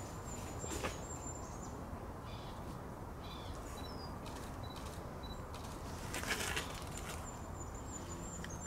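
Outdoor ambience: a steady low background hiss with faint, short, high bird chirps, and a couple of brief rustles, the loudest a little after six seconds in.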